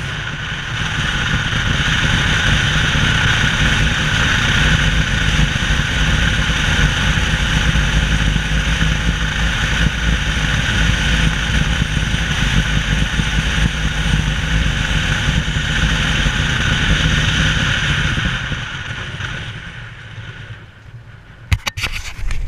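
An engine running steadily, then fading away about three seconds before the end, followed by a few sharp clicks.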